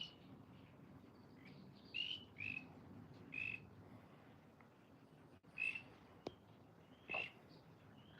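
Faint, short high peeps from frogs, about half a dozen at irregular intervals, with a light click about six seconds in.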